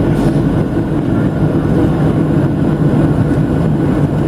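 Steady low rumble of cabin noise inside a Boeing 737-700 airliner: jet engine and airflow noise.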